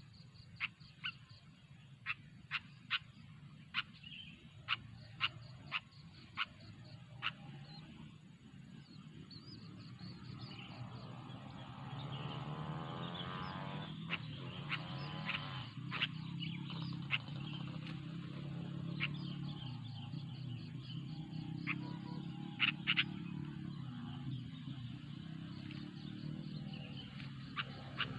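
Wild birds calling: short, sharp chirps about once a second in the first few seconds, then more scattered. A steady low hum comes in about a third of the way through and runs under the later calls.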